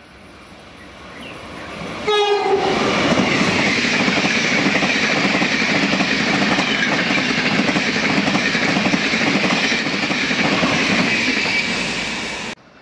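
Taiwan Railway train approaching and passing at high speed: a short horn blast about two seconds in as it reaches the microphone, then about ten seconds of loud rushing and fast wheel clatter over the rail joints. The sound cuts off suddenly near the end.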